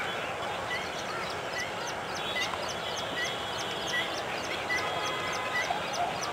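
Birds calling over a steady background hiss: a short chirp repeats about every ¾ second, with quicker, fainter ticks higher up.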